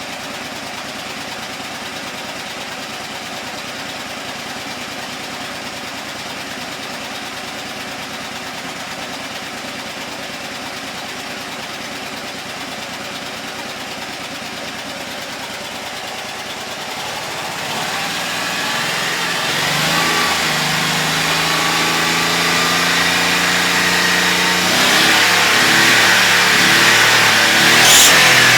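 Smart 600's small three-cylinder petrol engine running steadily, then from about two-thirds of the way through it revs up and runs faster and louder, with a brief sharp sound near the end.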